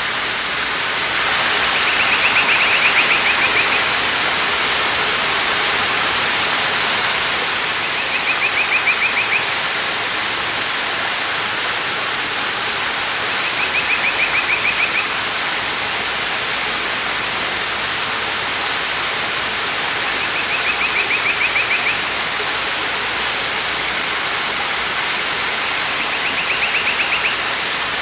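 Waterfall: a steady rush of falling water. Over it, a bird gives a short rapid trill, five times, about every six seconds.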